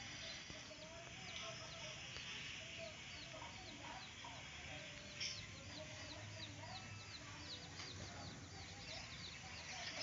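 Faint bird calls: a quick run of short, high chirps, about three a second, over lower, wavering clucking notes.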